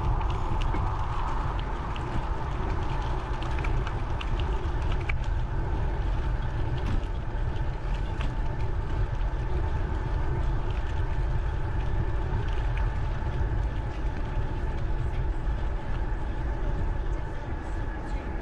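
Wind rumbling steadily on a GoPro microphone while riding a bicycle on a trail, with tyre noise and scattered small clicks and rattles.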